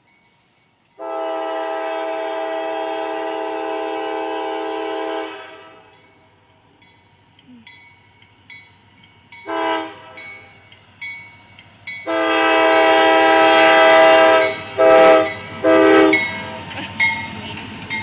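CSX freight locomotive's air horn sounding a chord for a grade crossing: a long blast, a short one, another long blast, then two quick short blasts.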